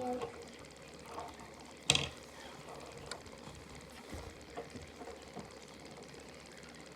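3D-printed crossbow loosing a shot: one sharp snap about two seconds in, followed by a few faint clicks and taps.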